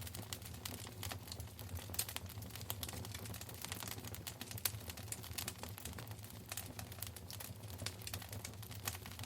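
Wood fire crackling in a fireplace: irregular sharp pops and snaps, a few louder ones, over a steady low rumble of the burning.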